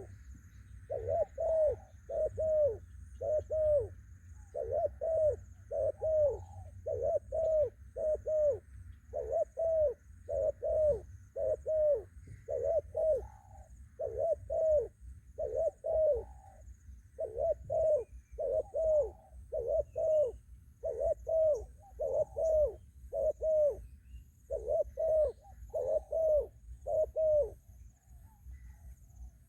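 Spotted dove cooing: a long run of short, low coos in quick groups of two and three, repeating without break until it stops near the end.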